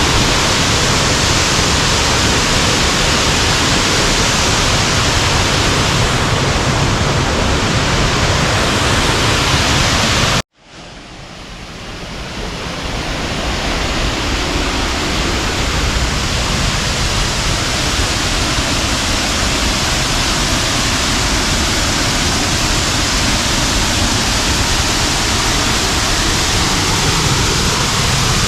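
Waterfall rushing, a steady wash of falling water; it cuts out abruptly about ten seconds in and fades back up over the next few seconds.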